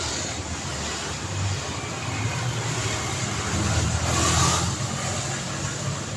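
Road traffic: a steady rumble of engines and tyre noise, with one vehicle passing close and loudest a little after four seconds in.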